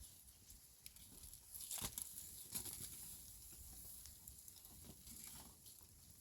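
Faint rustling with scattered light clicks and knocks, one sharper knock about two seconds in.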